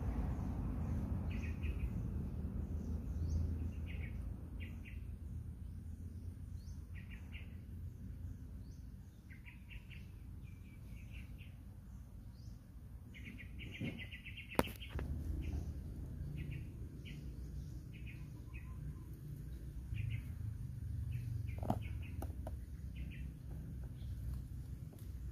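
Small birds chirping in short repeated calls, with a rapid run of chirps about halfway, over a steady low rumble. Two sharp clicks stand out in the second half.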